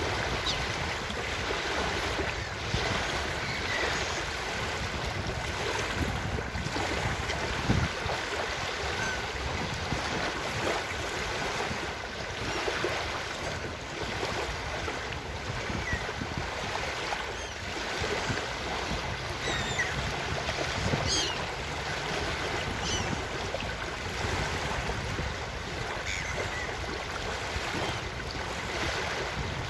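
Ocean surf washing steadily on a beach, with a few faint, short high calls of seagulls scattered through.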